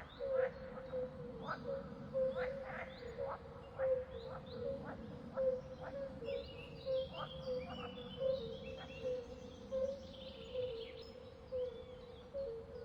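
Bird calls: repeated short chirps, with a run of higher warbling notes about halfway through, over a steady droning tone.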